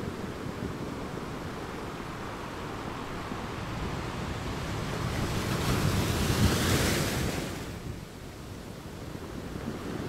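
Ocean surf: a big wave breaking, its rush swelling over a few seconds to a peak about two-thirds of the way in, then falling away quickly. A low wind rumble on the microphone sits under it.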